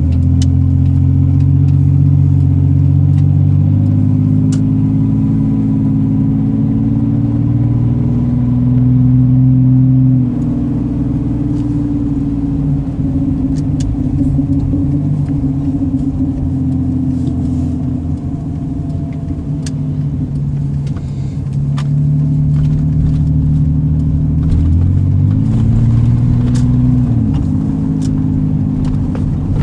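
Straight-piped cat-back exhaust of a 2002 Chevy S10 Xtreme's 4.3-litre V6 pulling as the automatic is shifted by hand. The engine note climbs for about ten seconds, with a step up near four seconds, then drops abruptly. It runs lower and steadier for a while, then climbs again and falls back near the end.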